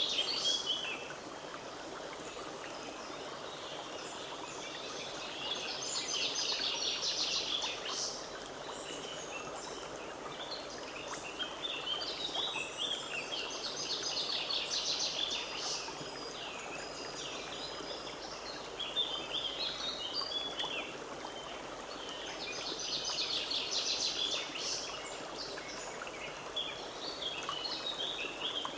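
Forest stream flowing steadily, with songbirds singing overhead. Their high trilled phrases come every few seconds and last a second or a few seconds each.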